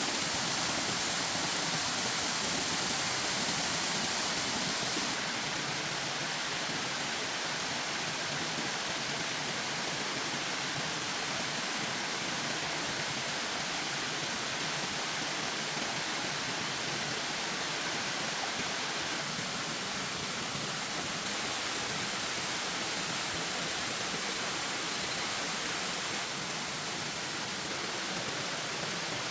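Steady, even rushing noise with no distinct events, its tone shifting slightly about five seconds in and again near the end.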